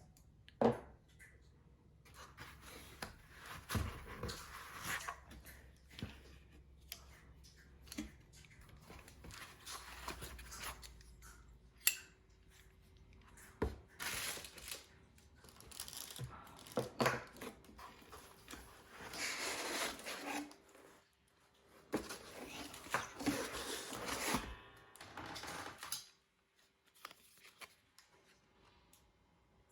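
Packaging being unpacked by hand: bursts of rustling and tearing of wrapping and cardboard, with scattered knocks and clicks, stopping a few seconds before the end.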